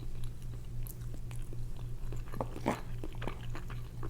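A person chewing food close to the microphone, with irregular short wet mouth clicks. A steady low hum runs underneath.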